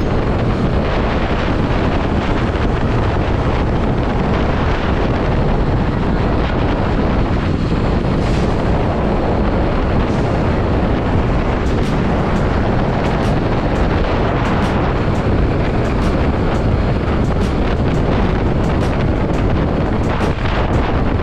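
Steady wind rush on the microphone of a motorcycle in motion, with the bike's engine and road noise blended underneath.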